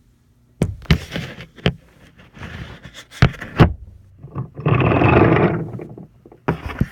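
Wooden toy trains and track being handled: several sharp wooden clacks and knocks, with a longer scrape of a wooden piece sliding along about halfway through.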